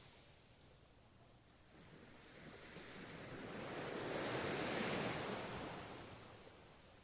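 A single ocean wave breaking and washing in, a hiss that swells gradually, peaks about two-thirds of the way through and fades away.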